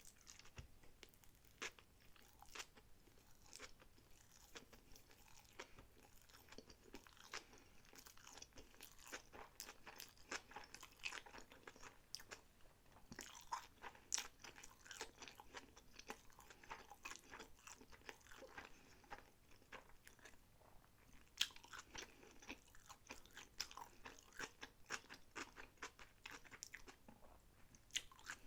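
A person chewing and biting sushi rolls, with a dense run of small crackling clicks and crunches that thins out briefly about twenty seconds in.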